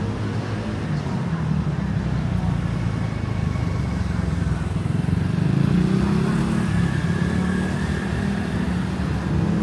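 City street traffic: car and motorcycle engines running in a steady low rumble. One vehicle passes louder about six seconds in.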